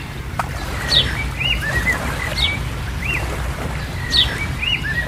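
Bird chirping: short high calls, a quick falling note and a rising-falling note, repeating every second or so over a low steady rumble.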